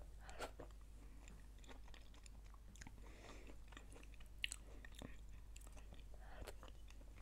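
Faint chewing close to the microphone, with small wet mouth clicks and a slightly sharper click a little past halfway.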